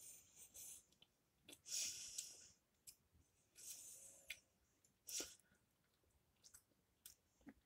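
Faint, closed-mouth chewing of a puff-pastry pork roll, with a few soft mouth clicks and two slow breaths about two seconds apart.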